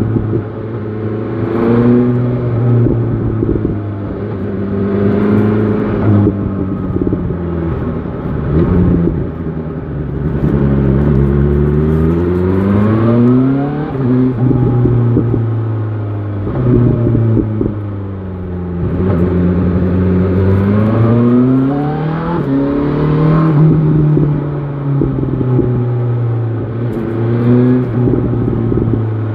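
BMW S1000 XR motorcycle engine under way, revs repeatedly climbing and dropping back as it accelerates, shifts and slows again several times.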